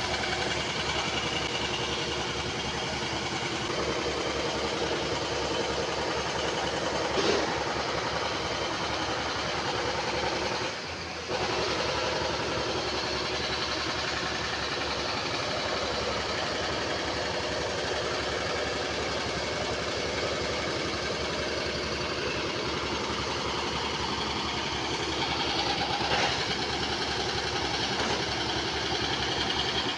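JCB excavator's diesel engine running steadily, with a sharper knock about a quarter of the way in and another near the end. The sound drops briefly about a third of the way in.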